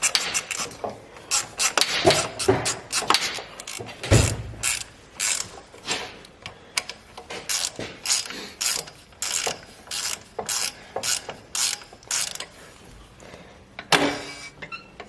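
Hand ratchet wrench clicking in repeated strokes as a bolt is tightened back down.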